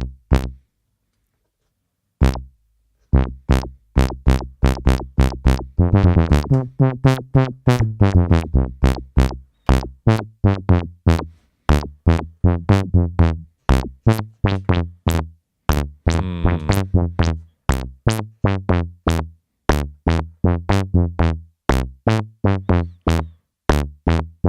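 Dave Smith Instruments Tempest analog drum machine playing a repeating run of short, plucky synth notes, its resonant filter opened and closed by an envelope so they sound bubbly. Twice the notes ring brighter with a sweeping resonance.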